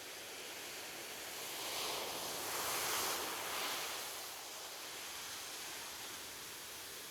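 Ocean waves breaking on a beach: a steady surf hiss, with one wave swelling and washing in about two to four seconds in.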